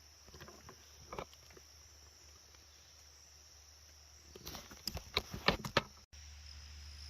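Footsteps crunching through leaves and underbrush: a few soft steps in the first second or so, then a quick run of louder crackles and snaps from about four to six seconds in. A steady high drone of crickets continues underneath.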